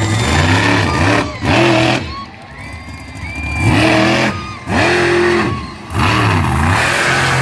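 Monster truck engine revving hard in repeated throttle blips, about five, each pitch climbing and falling away, with short lulls between.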